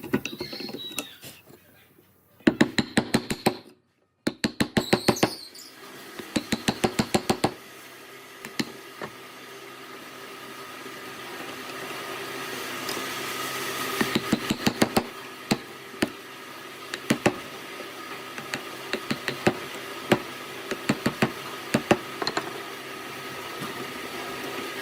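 Three short bursts of rapid knocking, about ten knocks a second, in the first eight seconds, then scattered single knocks over a steady hum.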